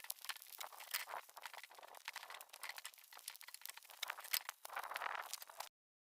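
Marinated pork bulgogi sizzling on a wire grill grate over charcoal: a dense, crackling sizzle of fat and sauce spitting, which cuts off abruptly near the end.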